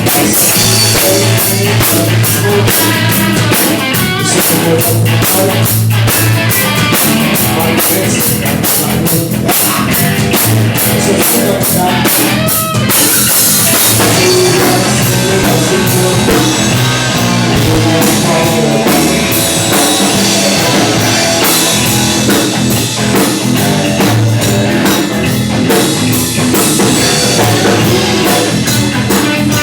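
Live rock and roll band playing an instrumental stretch: drum kit keeping a steady beat under electric guitar and bass.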